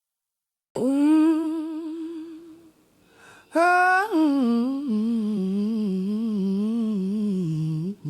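A woman's voice humming without words and without accompaniment: a held wavering note starting about three quarters of a second in, then after a short break a longer phrase that slides down and wavers on low notes.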